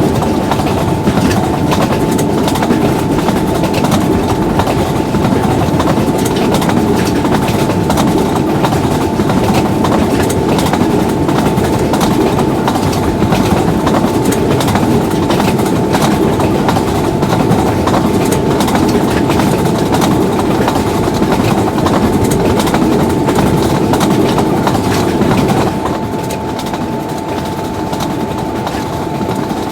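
Train running on the track: a steady rumble with rapid clicking of the wheels over the rails and a thin steady tone running through it. The rumble eases a little near the end.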